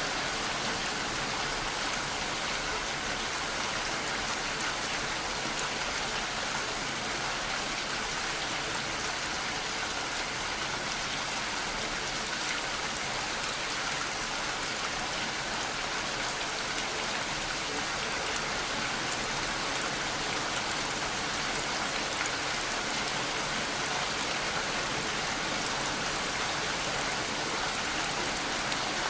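Steady rainfall: an even hiss of rain with faint individual drops pattering on a surface, unchanging in level.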